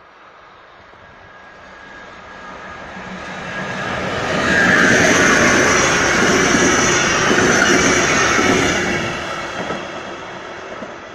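Locomotive-hauled passenger train passing close by: a rumble that swells as it approaches, becomes a loud rush of wheels on rail with a high hiss as the coaches go past, then fades as the train moves away.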